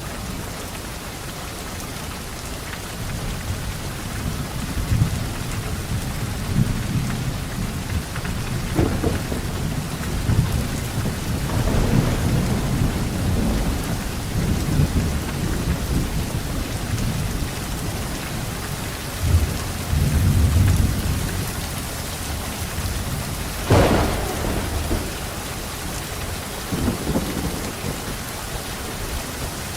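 Thunderstorm: steady heavy rain with rolling thunder rumbling underneath, swelling around the middle, and sharper thunder cracks about nine seconds in and again near the end.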